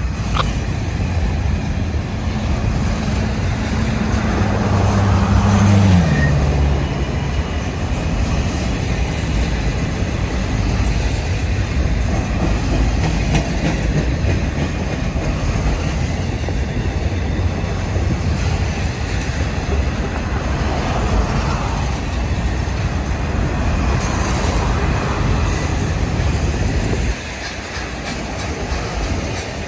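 Union Pacific diesel freight train passing close by. The locomotives' low engine tone drops in pitch about six seconds in as they go past, followed by the railcars rolling by with steady wheel clatter. It gets noticeably quieter near the end.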